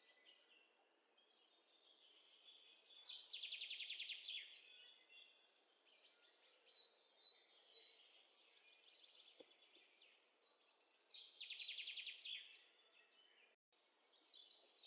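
Faint birdsong: several birds chirping, with two rapid buzzy trills that stand out, one a few seconds in and another about three-quarters of the way through.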